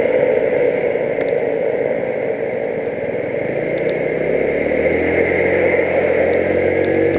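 A road vehicle driving, with steady engine and road noise. About four seconds in a clearer engine note comes in and rises slowly in pitch.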